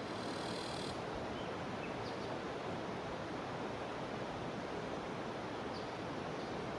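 Jungle river flowing, a steady even rush of water, with a high cicada buzz that cuts off about a second in.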